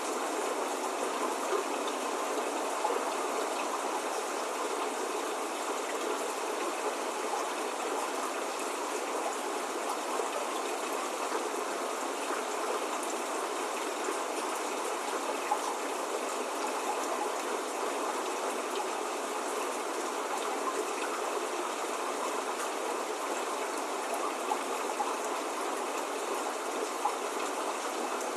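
Steady spring rain falling: an even, unbroken hiss of rain with a few slightly louder drops here and there, with no thunder or birdsong.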